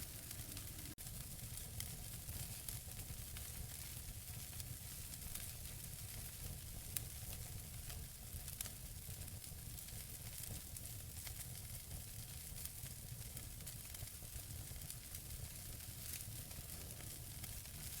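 Wood fire burning in a fireplace: a soft, steady hiss with many faint, scattered crackles and a low rumble, and one sharper pop about seven seconds in.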